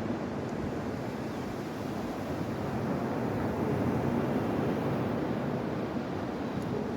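Steady wash of sea surf on a beach, with wind buffeting the microphone.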